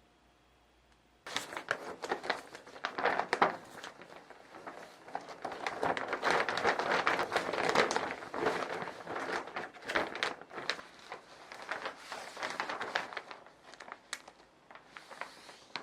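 Objects being handled close by: a crinkly rustle with many irregular clicks and taps, starting about a second in.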